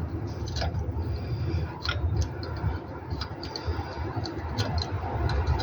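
Scattered light clicks and knocks of hand tools and car parts being handled during disassembly, irregular and a few to the second at most, over a steady low rumble.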